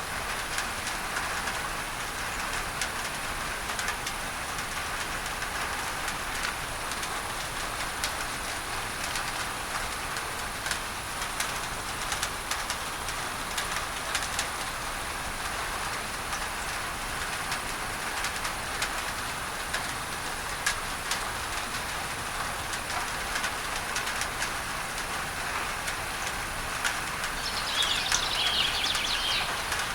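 Steady rain on a tin roof, full of sharp drop ticks, under a continuous hiss of masking noise. Near the end a bird calls briefly.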